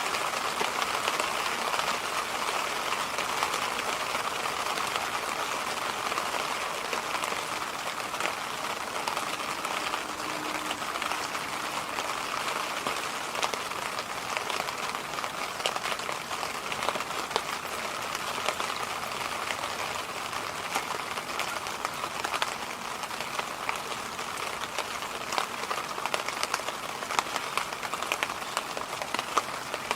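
Electric fan running, a steady whooshing air noise with scattered faint crackling ticks that grow more frequent in the second half.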